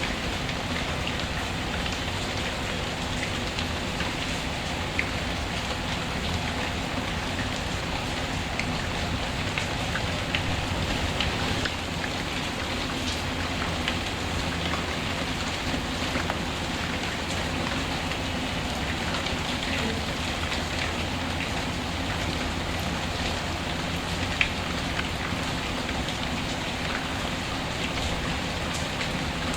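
Steady rain mixed with a crackling wood fire in a fireplace: scattered small crackles over the rain, with two sharper pops, one about five seconds in and one late on.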